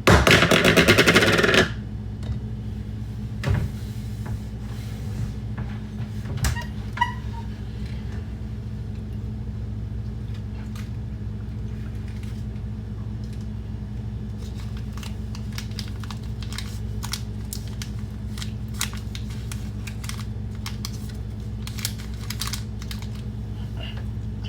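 A loud crackle at the start, lasting about a second and a half, then scattered light clicks and taps of things being handled, over a steady low hum.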